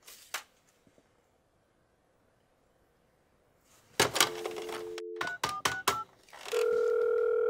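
Desk telephone being used to place a call: a sharp clack as the handset is lifted about four seconds in, then a dial tone for about a second, a few quick keypad beeps, and a steady ringing tone in the earpiece.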